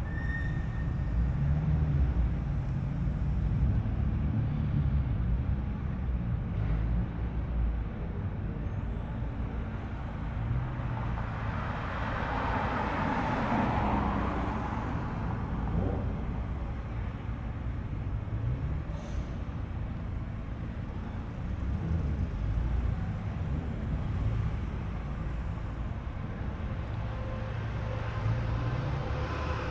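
Japanese cars' engines running at low speed as they roll in, a steady low rumble, with a louder swell about halfway through as one passes close.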